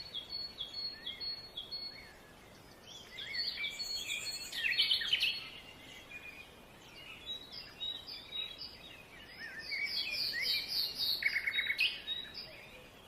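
Small birds chirping and twittering: many short calls and trills in bursts, with a couple of brief lulls.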